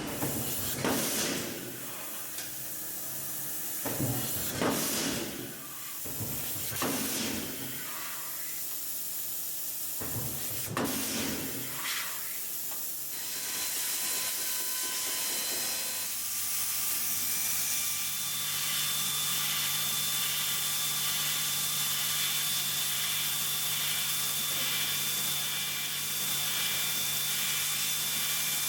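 Production-line machinery: several short hisses of air, like pneumatic valves venting, over the first dozen seconds, then a steady machine hum with a few constant tones.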